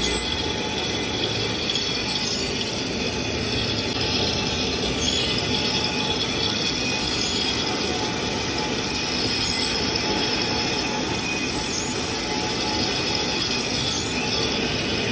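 Metalworking machinery running without a break, a steady screeching noise of metal being worked.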